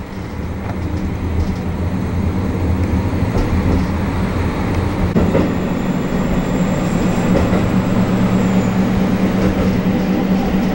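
Local train running, heard from inside the passenger car with a window open: a steady rush of track and wind noise that grows a little louder over the first seconds. A steady low hum strengthens about halfway through, and a faint high whine sounds for a few seconds in the middle.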